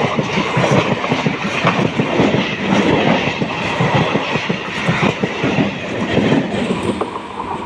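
A train passing close by, its wheels clattering over the rail joints in a quick, continuous run that eases off near the end.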